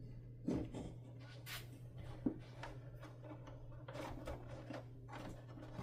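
Light clicks, taps and rustles of small parts and wires being handled on a workbench, over a steady low hum.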